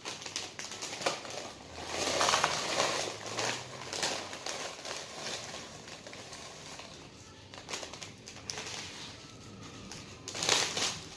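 A Doritos chip bag crinkling as the chips are tipped out into a pan, in irregular rustling bursts that are loudest about two seconds in and again near the end.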